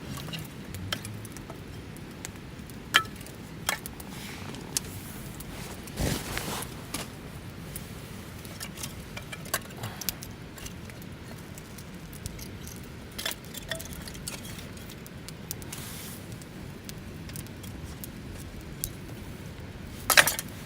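Wood campfire crackling: irregular sharp pops and snaps over a low steady rush, with the loudest pops about three seconds in and just before the end.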